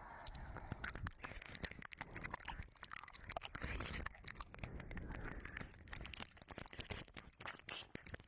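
Close-up wet mouth sounds and ear licking into a binaural dummy-head microphone: a dense, irregular run of small sticky clicks and smacks without words.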